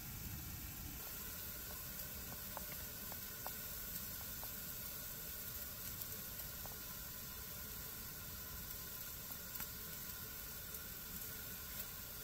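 Coffee percolator heating on a wood stove, giving a steady low hiss and sizzle, with scattered faint ticks.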